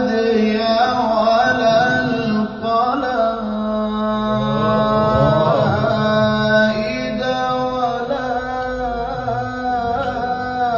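A male reciter chanting the Quran in maqam Kurd, drawing out long, ornamented melodic phrases with wavering pitch.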